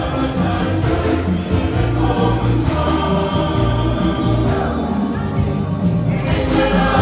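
Church choir singing a hymn with full, steady accompaniment.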